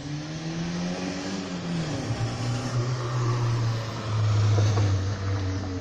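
Car engine revving in the street: its pitch rises and falls over the first two seconds, then it holds a steady note and is loudest about four seconds in.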